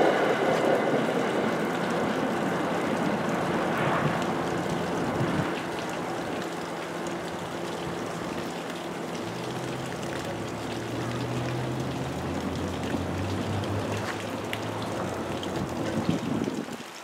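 NJ Transit commuter train rumbling away after passing, its noise fading over the first few seconds into a steady hiss. A low hum rises and dies away about halfway through.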